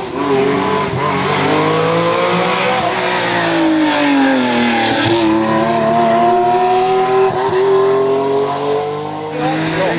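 Porsche rally car's engine at full race effort on a hill climb. The note falls about four seconds in, climbs steadily under acceleration, then drops sharply near the end.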